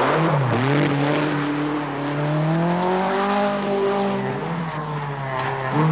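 Rally car engine running at high revs, its note climbing slowly and then easing back, with a rush of noise at the start.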